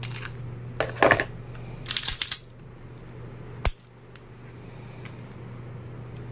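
Handling clatter from a Ruger Max-9 pistol unboxing: two short bursts of hard clicks and clacks, then one sharp click about three and a half seconds in, over a steady low hum.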